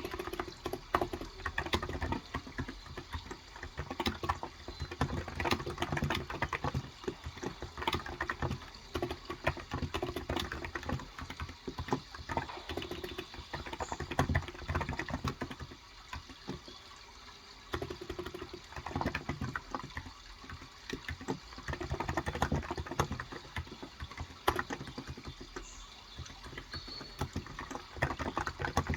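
Typing on a Cox Endeavor electro-capacitive (Topre-style) 35g tenkeyless keyboard: quick runs of keystrokes in bursts with brief pauses. Under it is a steady sound of running water.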